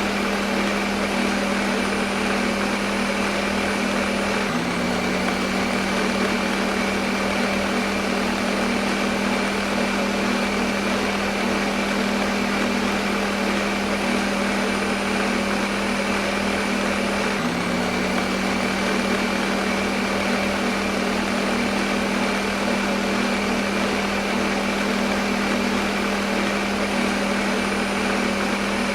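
Electric kitchen blender motor running continuously, a steady whirring hum over a dense rushing noise, with a slight shift in pitch twice.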